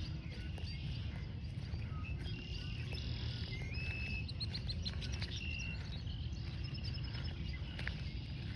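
Small birds chirping and calling, with a rising whistled note that levels off about four seconds in and a quick high trill right after it, over a steady low rumble.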